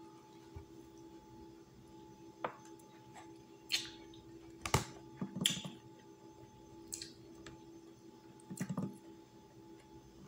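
Close-up eating sounds: a person chewing stir-fried string beans with tofu and shrimp, with scattered wet mouth clicks and smacks, the sharpest just under five seconds in, over a steady low hum.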